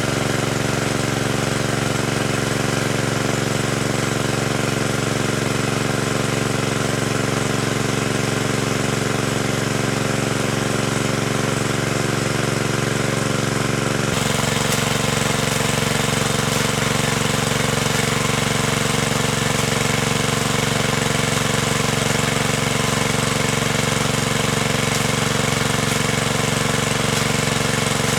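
A small engine running steadily with an even pulsing beat, its sound changing abruptly about halfway through.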